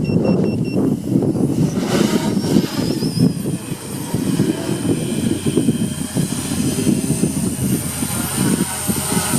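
Wind buffeting the microphone in heavy, uneven gusts, with a thin, steady high whine coming in about two seconds in.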